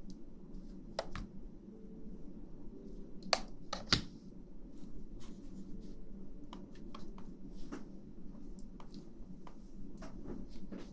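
Scattered light clicks and taps, with two sharper clicks close together a little over three seconds in, over a steady low hum.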